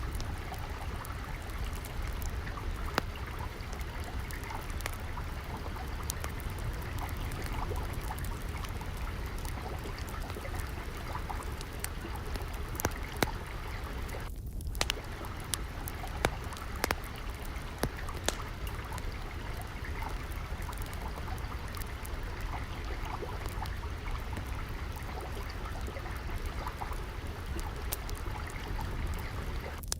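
Water trickling and flowing steadily, mixed with the scattered sharp pops and crackles of a wood fire burning in a fireplace. The sound drops out briefly about halfway through.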